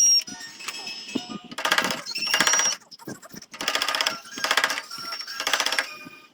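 Rhythmic abrasive strokes working the zelkova root during its first sanding stage: rasping bursts about half a second long, coming in loose pairs, with a faint high squeak in between.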